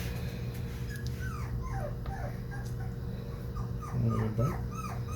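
Four-week-old XL American Bully puppy whimpering in a string of short, high whines that each fall in pitch, about two a second, while being given a dose of dewormer. A brief low voice sounds about four seconds in.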